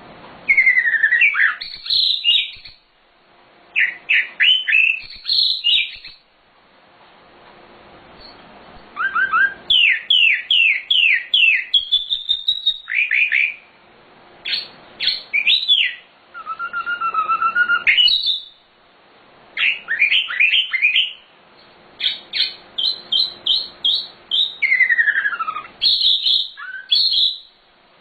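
Sikatan londo, a small flycatcher-type songbird, singing loud, varied phrases of quick up-and-down whistled notes and rapid trills. Each burst lasts a second or two, with short pauses between.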